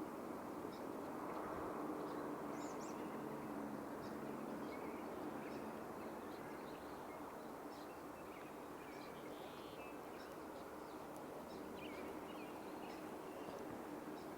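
Faint, scattered short bird chirps and calls over a steady outdoor background hiss.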